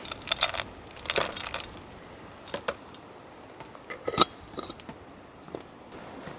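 Small hard items clinking and clattering as they are handled, in several short bursts of sharp clicks a second or two apart.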